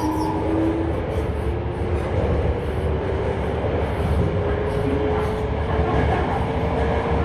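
Toei 5300 series subway train running in the tunnel, heard from inside the car as it accelerates away from a station. A motor whine climbs slowly and steadily in pitch over a dense rumble of wheels and tunnel noise. This set is known as an "abnormal-noise car".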